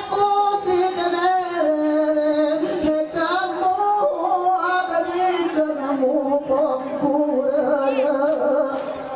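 A high voice singing a Gayo Saman chant: long drawn-out notes with wavering ornaments, stepping slowly down in pitch.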